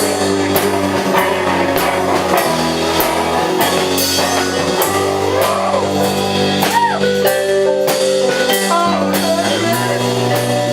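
Live rock band playing an instrumental passage: electric guitar, bass and drum kit, with steady drum hits under held chords.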